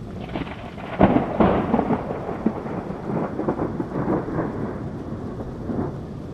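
Thunder: a sharp crack about a second in, then a long crackling rumble that slowly dies away, over a steady hiss of rain.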